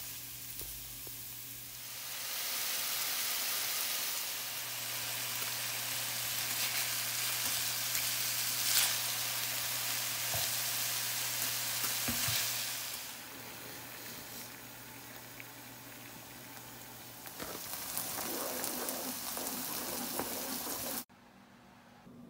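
Minced garlic and then chunks of salmon sizzling in oil and butter in a nonstick frying pan, with a spatula stirring. The sizzle starts about two seconds in, eases off around the middle, picks up again and cuts off suddenly a second before the end.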